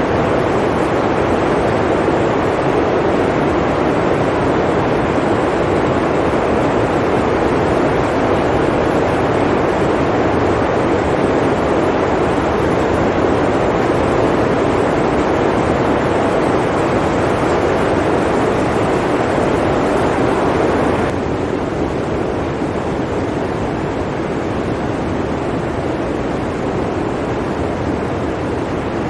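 Steady blizzard wind, a loud, even rush of noise, strongest in the low-middle range; it drops slightly in level about 21 seconds in.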